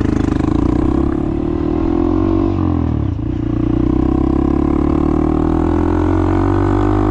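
Honda Monkey's single-cylinder four-stroke engine riding under power. Its note rises, drops briefly about two and a half seconds in as if at a gear change, then rises again and holds steady.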